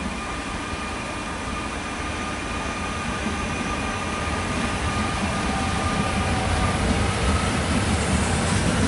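Trenitalia Minuetto electric multiple unit moving through the station, growing steadily louder as it nears, with a steady high whine over the running noise.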